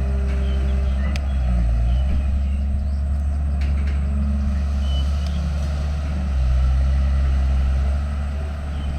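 Diesel engine of a heavy earthmoving machine running under load, its note rising and falling as it works, swelling louder for a while about six seconds in.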